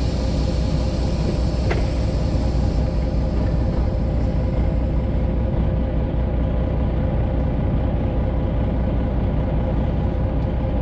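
Semi truck's Detroit Diesel 12.7-litre engine idling steadily, heard from inside the cab as a constant low rumble with a faint steady hum.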